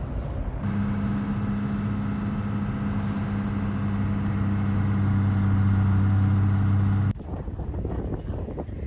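A motor vehicle's engine humming at one steady pitch for about six seconds, starting and stopping abruptly and growing slightly louder near the end. Rough wind-like noise follows.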